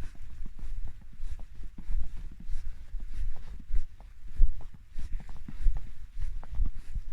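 Footsteps of someone walking through snow. Each step is a low thud with a short crunch, at an uneven walking pace of roughly one to two steps a second.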